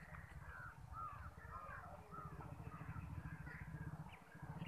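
Birds calling outdoors: a quick run of short chirping calls, faint, over a low steady rumble.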